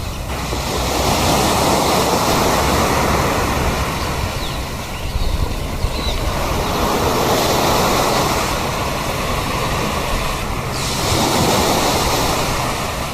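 Sea surf washing ashore in slow swells, the rush of water rising and falling every few seconds. A few faint, short, high bird calls sound over it about five seconds in.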